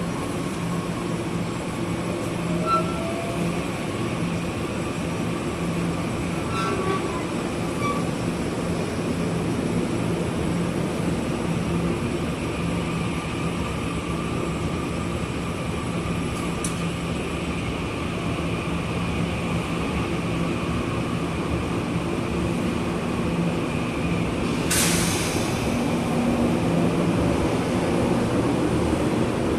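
Taiwan Railways electric multiple-unit commuter train running, heard from inside the carriage: a continuous rumble of wheels on track with a steady hum. A brief sharp hiss sounds about 25 seconds in.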